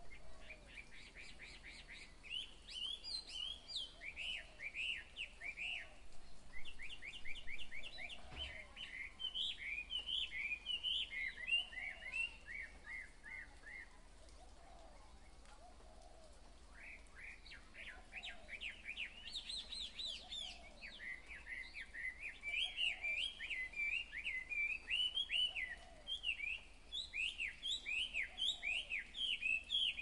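Songbird singing in fast runs of short chirps and trills, in two long bouts with a pause of about three seconds between them.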